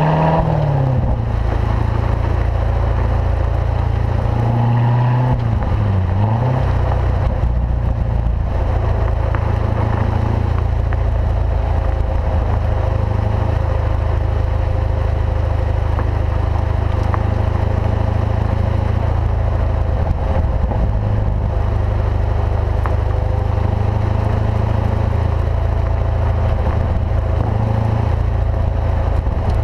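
2014 Corvette Stingray's 6.2-litre LT1 V8 through its factory performance exhaust while driving. The revs drop right at the start and dip and climb again about five to six seconds in, as in a gear change, then hold steady at an even cruise.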